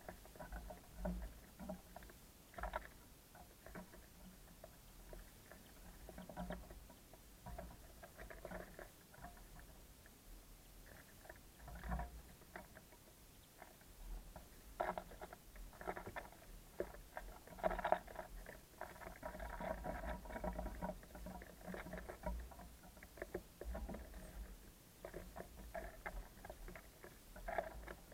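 Small birds at a feeder pecking seed and hopping about, a steady stream of irregular soft taps and scratches with a low rumble underneath.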